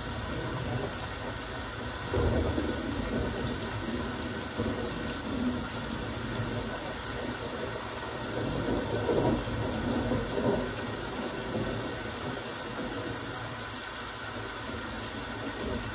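Rain falling steadily, an even hiss of drops, with fuller, deeper swells about two seconds in and again around nine to ten seconds.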